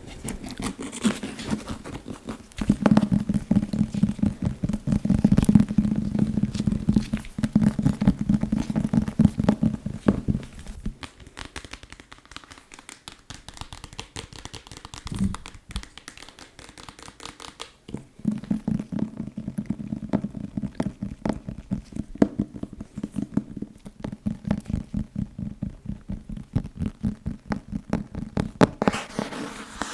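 Fast tapping and scratching on a book, a dense run of quick taps. The taps carry a low hollow knock for the first several seconds and again through most of the second half, with lighter, finer tapping and scratching in between.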